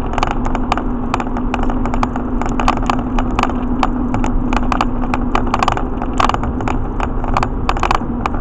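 Cabin noise of a truck driving on knobby tyres: a steady road-and-engine drone with a constant hum, and frequent light rattles and clicks.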